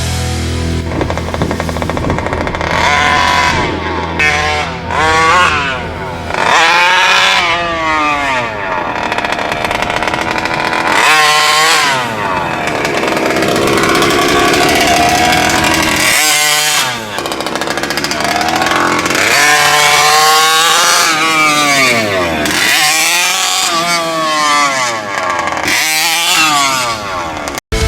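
Taylor 50 GT engine of a large-scale RC monster truck running. It holds a steady note for the first few seconds, then revs up and drops back again and again.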